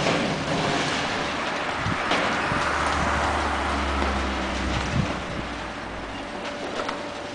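Caterpillar ultra-high-demolition excavator at work tearing down a building: its diesel engine drones under load from about three to six seconds in, over a continuous crashing and clattering of broken concrete and debris, with a couple of sharp knocks.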